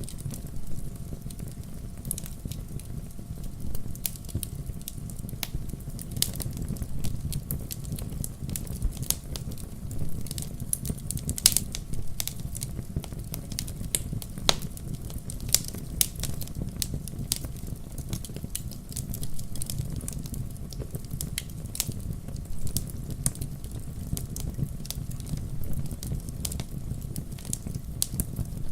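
Wood fire in a fireplace crackling, with many sharp pops at irregular intervals over a steady low rumble of the burning logs.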